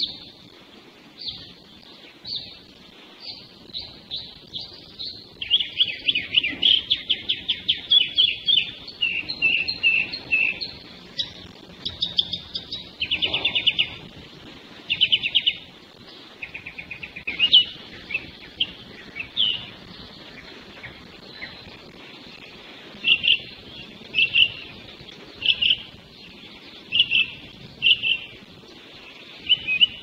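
Songbirds singing and calling, high-pitched. Short chirps repeat about once a second, with a stretch of fast rapid trills in the middle and spaced chirps again near the end.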